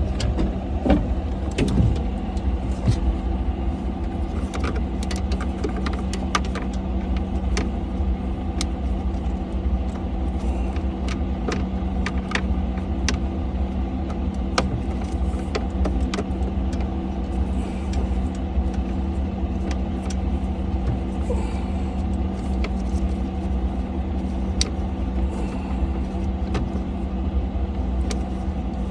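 An engine running at a steady idle, with scattered light clicks and knocks of parts being handled.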